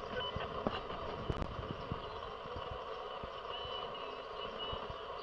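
Steady outdoor vehicle background noise, with a few short high-pitched beeps in the second half.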